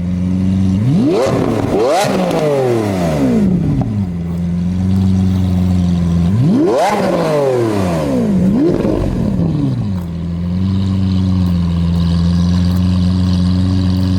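Lamborghini Aventador's 6.5-litre V12, breathing through a valved exhaust with high-flow cat midpipes, idling and revved twice. Each rev sweeps sharply up and falls back. The second rev has a quick extra blip on the way down, and the engine then settles back to a steady idle.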